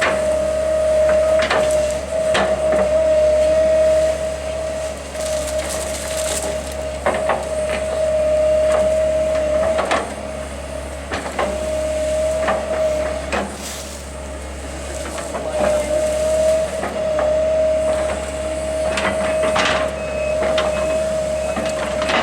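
Heavy machinery running with a steady whine and low hum while wood cracks and snaps in repeated sharp knocks. The whine cuts out briefly about halfway through and again a few seconds later.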